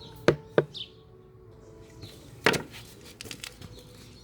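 Three sharp knocks, two close together near the start and a louder one about two and a half seconds in, followed by a few faint ticks. A small bird chirps once between them.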